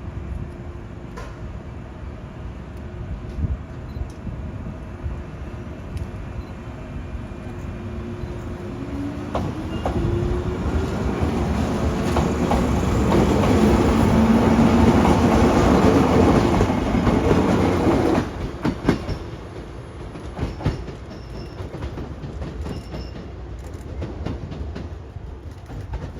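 Series 113 electric train moving past at close range, its wheels clicking over rail joints and a rising motor whine as it gathers speed. The noise swells to its loudest and then falls away sharply as the end of the train passes.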